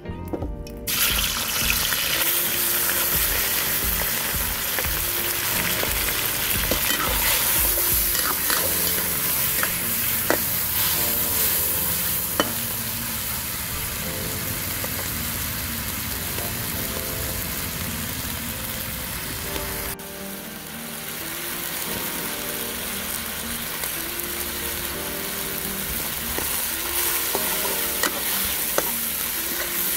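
Chopped rat meat frying in hot oil in a steel wok: a steady sizzle that starts about a second in, with a metal ladle stirring and scraping and now and then clicking against the pan.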